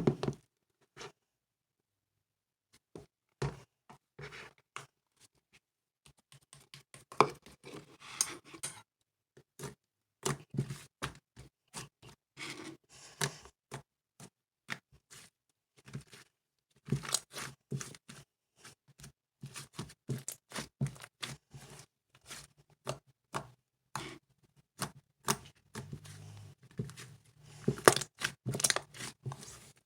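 Slime being squished and pressed by hand, giving irregular sharp clicks, pops and crackles, with denser runs of crackling at times.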